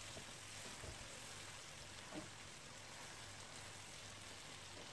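Faint sizzling of chicken pieces frying in oil with ginger-garlic paste in a non-stick pan, with a couple of soft taps as a silicone spatula stirs them.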